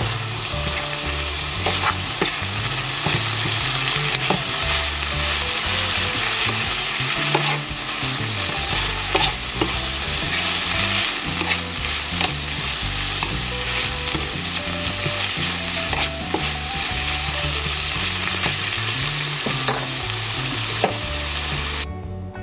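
Food sizzling in hot oil in a pan, with scattered sharp clicks of a cooking utensil against the pan. The sizzle cuts off suddenly near the end.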